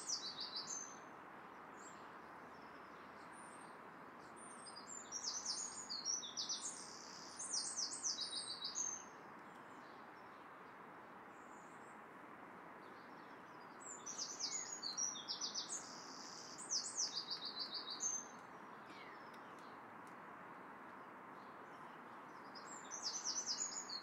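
A songbird singing short phrases of quick, high, falling notes, the phrases coming in pairs every several seconds over a faint steady background hiss.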